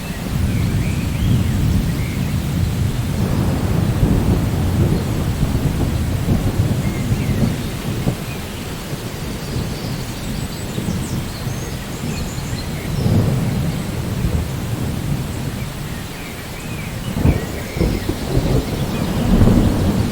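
Steady rain with low rolling thunder, the rumble swelling several times, most strongly near the end.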